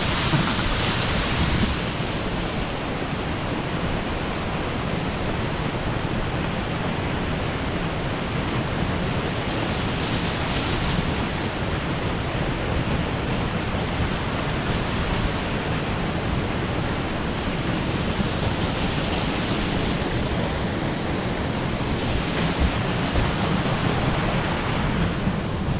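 Waterfall rushing: a steady, even wash of falling water, a little louder and brighter for the first couple of seconds.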